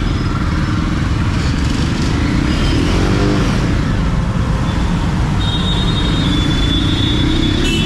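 Jawa 42 motorcycle's single-cylinder engine and exhaust running under way through a short tunnel, with road and wind noise. The revs rise and fall briefly about three seconds in, and a steady high tone from other traffic sounds in the second half.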